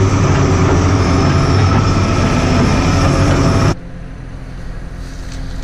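Skid loader engine running loud and steady, then cutting abruptly to a much quieter low hum about two-thirds of the way through.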